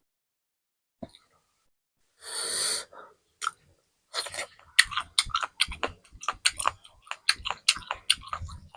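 Close-miked crunchy eating: a single click, a short breathy rush of noise a little after two seconds in, then from about four seconds on a rapid run of sharp crunches from chewing.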